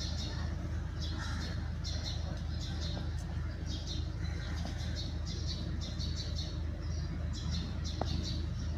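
Birds calling in the tree canopy: runs of short, high chirps repeated every fraction of a second, over a steady low hum.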